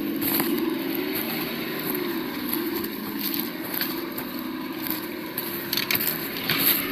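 Engine sound played by a 1:8 RC crawler's sound module, a steady drone that wavers slightly in pitch, with crunching and sharp clicks from the truck moving over rough ground, the clicks coming thicker near the end.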